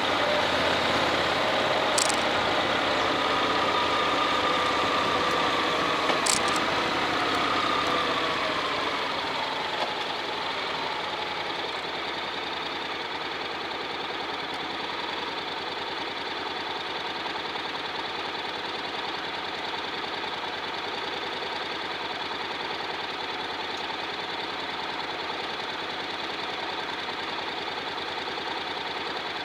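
Honda X-ADV's parallel-twin engine slowing, its pitch and loudness falling over the first ten seconds, then running steadily at a low, even idle. There are two short clicks about two and six seconds in.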